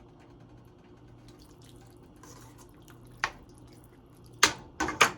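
Kitchen handling sounds while cooking: scattered faint ticks, then four sharp knocks, one about three seconds in and three in quick succession near the end.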